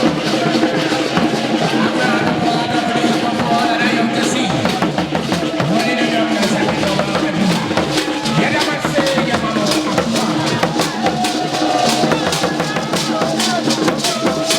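Loud music of drums and percussion, with dense, steady strokes and wavering voices over them.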